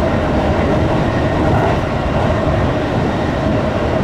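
JR East 205 series electric train running along the line, heard from inside the front car: a steady rumble of wheels on rail, with an even tone running through it.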